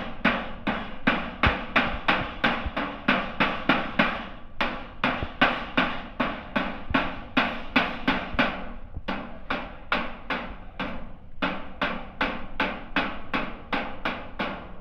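Steady hammering on a sheet-metal HVAC duct: about three ringing blows a second, with a few short pauses.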